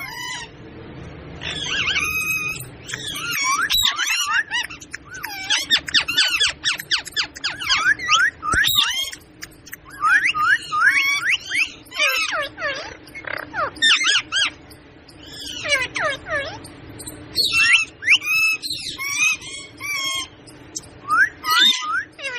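Parrot calling in quick runs of shrill, gliding squawks and chatter, with brief pauses between the bursts.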